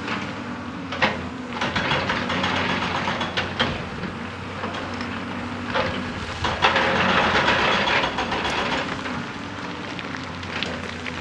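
Hydraulic excavator's diesel engine running steadily, with a few sharp knocks and a louder stretch of rough, grinding noise about six and a half seconds in.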